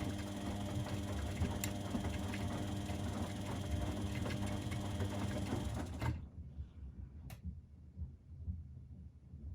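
Domestic washing machine and tumble dryer running: a steady mechanical hum with light clatter that cuts off abruptly about six seconds in. A faint low hum and a single click a second later are left.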